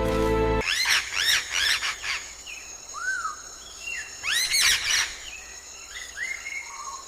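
Music cuts off about half a second in. Then a bird chirps in quick runs of short notes, each rising and falling, with softer scattered calls later.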